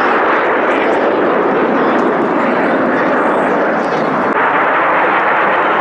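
Display aircraft's engines heard as a loud, steady rushing noise with no clear pitch.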